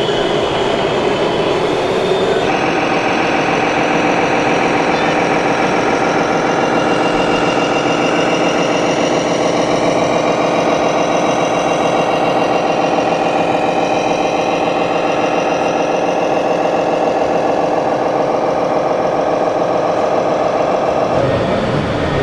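Steady engine-like running sound from a scale RC model truck, with many steady overlapping tones. The sound changes abruptly about two seconds in and again near the end.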